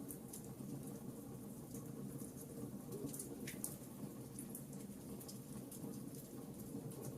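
Campfire burning: a steady low rush of flames with scattered sharp crackles and pops.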